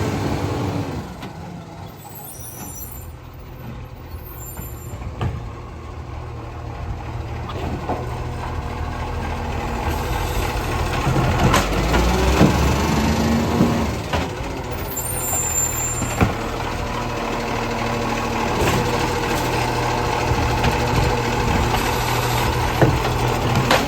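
Garbage truck engine running, its pitch rising and falling, with sharp knocks and clanks every few seconds.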